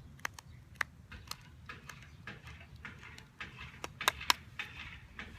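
Cottonwood fungus being shaved with a blade: irregular small scrapes and clicks as bits are cut off into a pile, with two sharper clicks about four seconds in.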